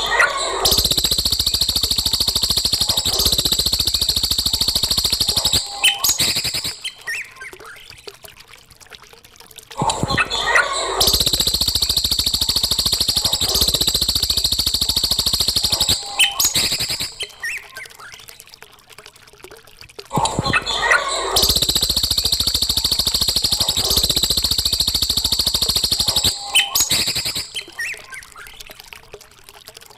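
A songbird's fast, high trilling song in a looped recording. A burst of about six seconds repeats every ten seconds, three times, with quieter scattered chirps between.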